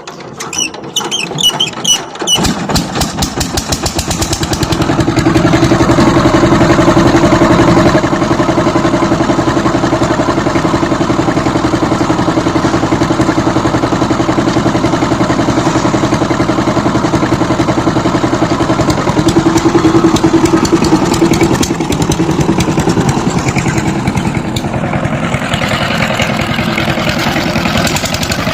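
Power tiller engine being cranked and catching about two seconds in, then running steadily; it comes up to speed over the next few seconds, and its sound shifts about 22 seconds in.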